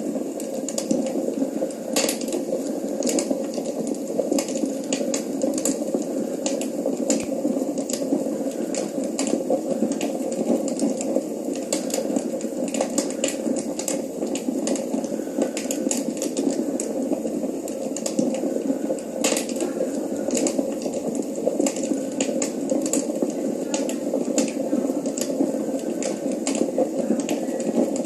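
Crackling wood fire from a TV fireplace video, played through a television's speakers: a steady low rush with irregular sharp pops and crackles.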